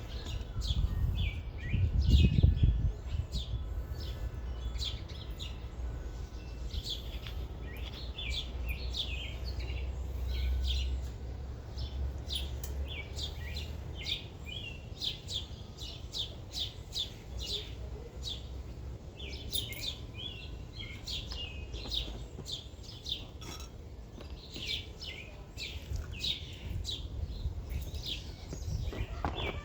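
Songbirds chirping, with many short calls repeated throughout. Underneath is a steady low rumble, strongest in the first half, with a low thump about two seconds in.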